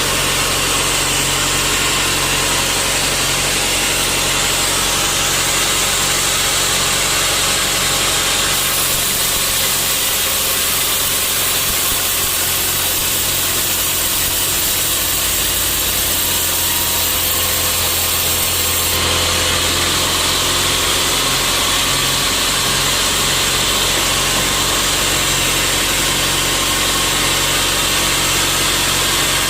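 Sawmill machinery running steadily. Its tone shifts for about ten seconds, from roughly a third of the way in, then settles back.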